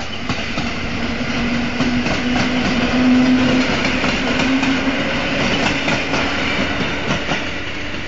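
Electric multiple unit passing, its wheels clattering over rail joints under a steady hum. It is loudest about three seconds in and then fades a little as the train pulls away.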